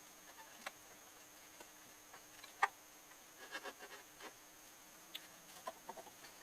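A few scattered short clicks and knocks over a faint steady hum, the sharpest knock about two and a half seconds in, with small clusters of clicks after it.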